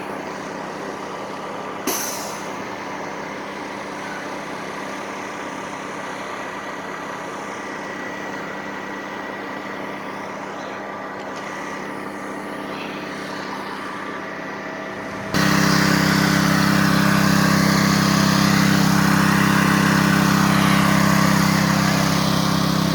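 Large truck engine idling steadily with a constant hum. There is a short click about two seconds in. Near the end the hum abruptly becomes much louder and deeper.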